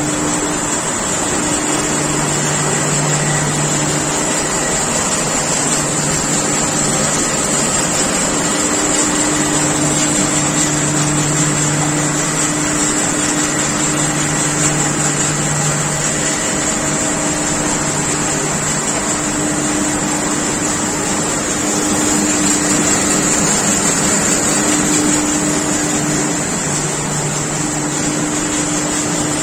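Mezzera open-width textile washing range running: a steady, loud mechanical noise with a high hiss, and a low hum that drops out and returns every few seconds.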